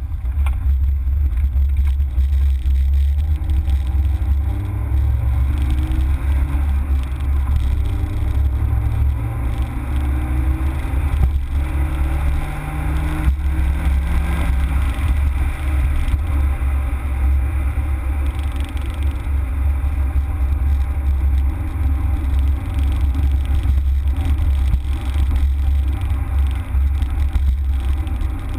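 Citroën Saxo VTS 16v's 1.6-litre 16-valve four-cylinder engine driven hard, heard from inside the car over a heavy, steady low rumble. Through the middle the engine note climbs several times in steps, each rise breaking off at a gear change, then it settles into a steady drone.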